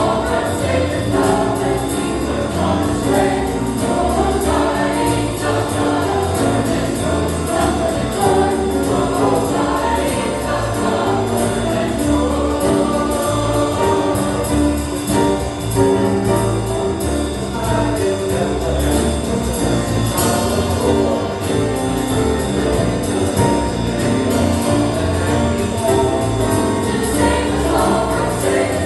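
Choir singing a jazz-style Christmas cantata song with instrumental accompaniment.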